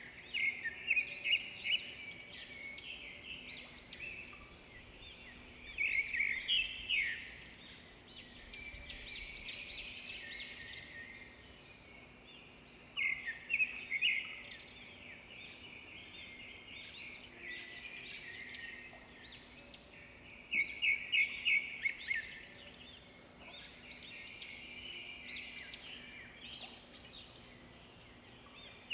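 Small songbirds chirping and twittering, several calls overlapping, with loud quick flurries of high chirps every several seconds and softer twittering in between.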